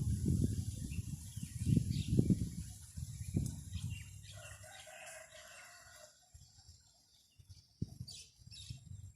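A rooster crows once, about four seconds in, a call of a little under two seconds. Before it, strong wind buffets the microphone with a low rumble.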